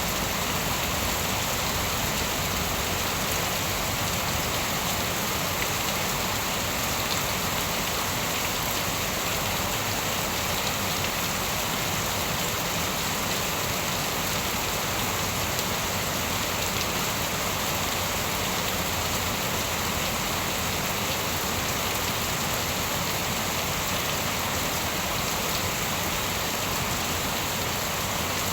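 Steady heavy rain falling on a surface, an even dense hiss with no thunder.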